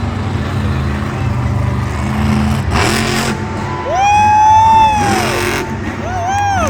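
Grave Digger monster truck's engine running and revving in bursts. A long high-pitched yell rises over it about four seconds in, and a shorter one comes near the end.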